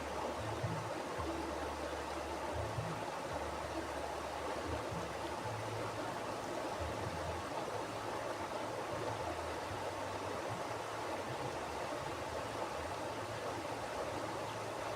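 Mountain river flowing: steady rushing, splashing water, with a low rumble that swells and fades irregularly underneath.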